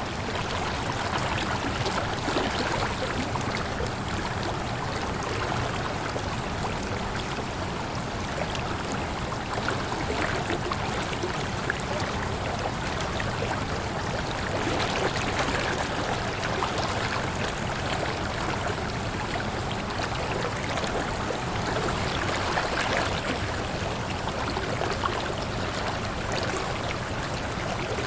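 Water falling and splashing steadily over rocks, a continuous rushing with a low rumble underneath and no breaks.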